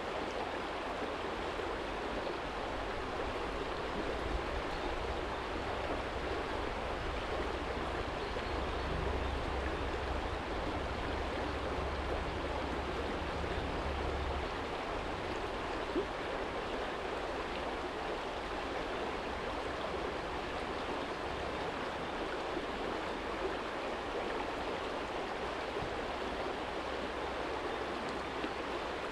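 Small stream flowing over a stony bed, a steady rush of water. A low rumble sits under it for about ten seconds in the first half, with a single faint click a little past the middle.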